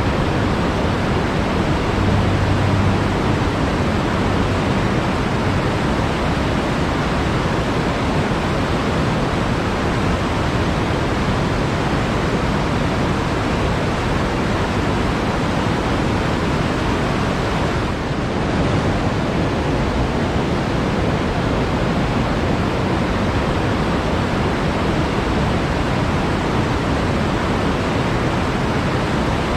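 Flowing water giving a steady, even rushing sound, with a brief dip in the hiss about eighteen seconds in.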